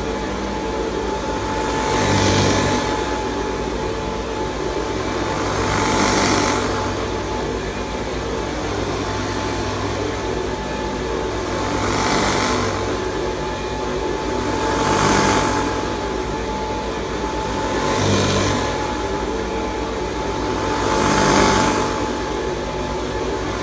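1969 Hoover Convertible Model 1070 upright vacuum cleaner running steadily with a constant whine and low hum, its sound swelling and easing every three seconds or so as it is worked back and forth over carpet.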